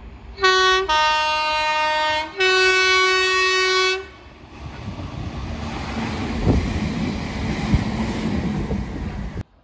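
A Merseyrail electric train sounds its two-tone horn high, low, high, each note held for a second or more. It then runs underneath with a growing rumble of wheels on rail and a couple of knocks.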